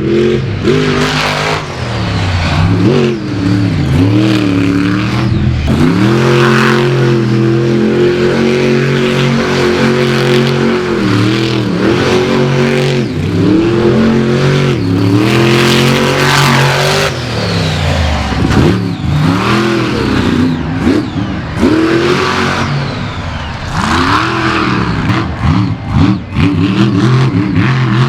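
Monster truck engine revving hard, its pitch dropping and climbing again and again, with long held full-throttle stretches in the middle.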